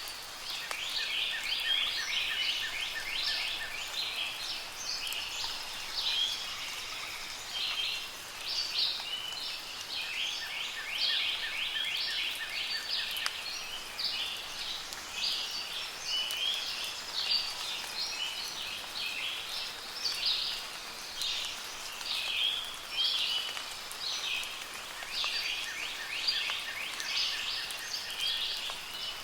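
Several songbirds singing and chirping continuously over a soft patter of rain, with a rapid, lower trill coming in three times.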